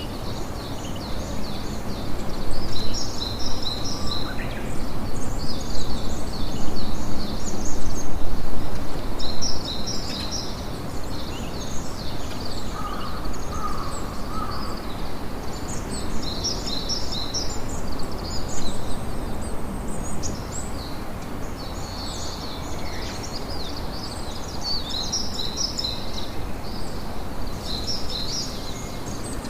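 Campfire crackling steadily under a chorus of birds chirping many short, high notes, busiest in the first third.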